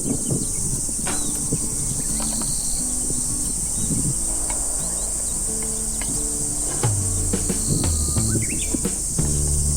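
A steady, high-pitched chorus of insects, cricket-like, running on without a break, over low held notes of soft background music.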